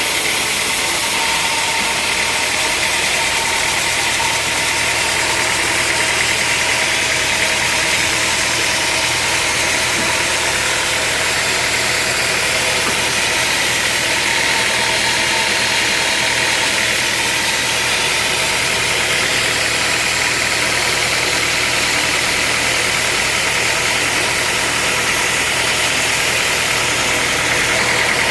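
Sawmill machinery running steadily: a constant engine-like drone with a bright hiss above it, unchanging throughout.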